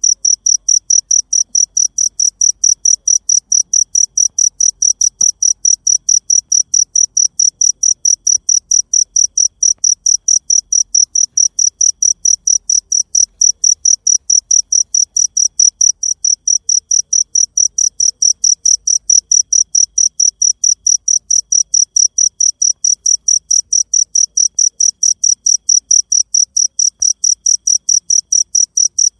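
A cricket chirping loudly and very regularly, about four high-pitched chirps a second without a break.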